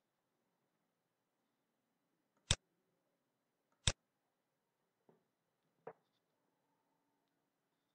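Four short, sharp clicks against quiet room tone: two loud ones about a second and a half apart, then a faint one and a softer one about two seconds later.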